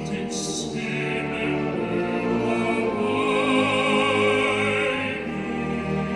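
Vocal ensemble singing held chords in several parts. A high voice with vibrato stands out above the others in the middle.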